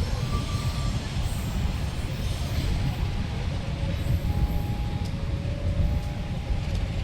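Train with a diesel locomotive running at the station, a steady low rumble with faint thin tones coming and going above it.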